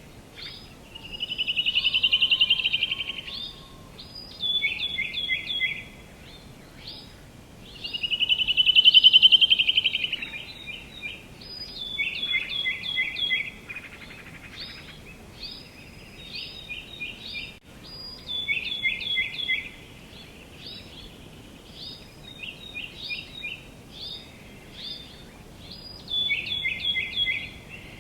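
Songbirds calling: short chirps repeated in quick runs of three to five, with two longer rapid trills that swell and fade, the loudest sounds, about two seconds in and again near nine seconds.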